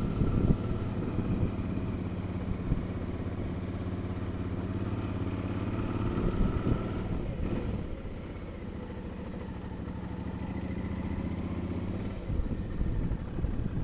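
Suzuki V-Strom motorcycle engine running steadily while being ridden; the engine note eases off about eight seconds in and picks up again shortly before the end.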